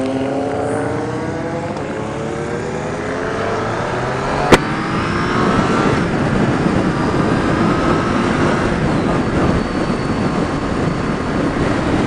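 Motorcycle engine under way with wind rush, its pitch falling as it slows at the start, then rising again as it speeds up. A single sharp click about four and a half seconds in.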